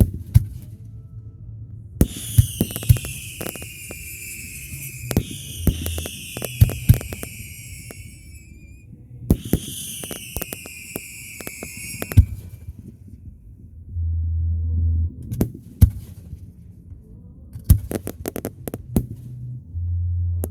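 Fireworks going off: many sharp bangs and cracks, with whistling shells whose shrill tones fall in pitch, one spell about two seconds in and another about nine seconds in. Deep booms come around fourteen seconds in and near the end.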